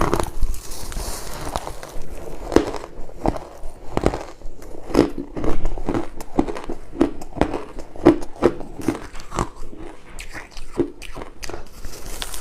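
Crushed and shaved ice being bitten and chewed: a steady run of crisp crunches, about one or two a second.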